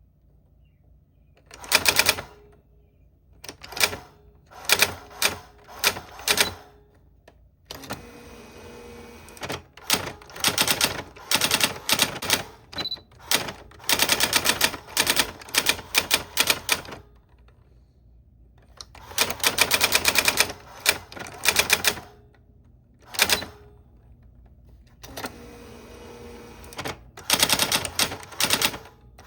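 Old typewriter being typed on: runs of rapid key strikes, some lasting several seconds and some only a few strokes, separated by short pauses.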